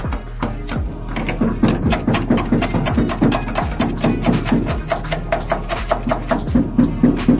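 Rapid repeated knocks, about three to four a second, of a hand tool chipping hardened undercoating and sound deadening off the underbody of a Toyota AE92 Corolla Levin, over a steady low hum.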